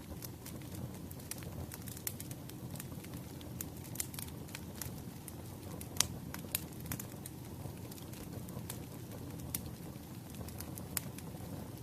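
Firewood burning, with irregular sharp crackles and pops over a low, steady rumble; one pop about halfway through stands out as louder than the rest.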